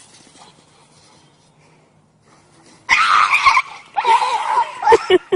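An animal crying out loudly in two spells, about three and four seconds in, after a faint start; near the end the cries break into short separate yelps.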